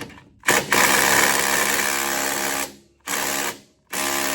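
Cordless impact wrench hammering on the last gearbox mounting bolt of a John Deere 430 baler, in three runs: a long one of about two seconds, a short one, then a third starting near the end. The bolt is stubborn and does not break loose.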